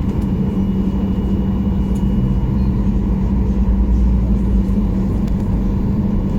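Steady cabin rumble of a Boeing 737-800 heard from inside the passenger cabin: its CFM56 jet engines and the airflow make an even, loud low drone with a constant hum.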